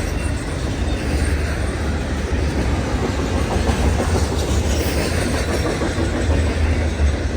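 Long CN intermodal freight train passing close by, its cars rolling steadily on the rails with a continuous low rumble and rattle.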